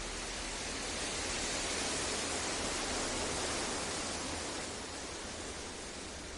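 Synthesized masking noise for sleep: an even, steady hiss with no tones or clicks. It slowly swells a little louder and brighter for a few seconds, then eases back.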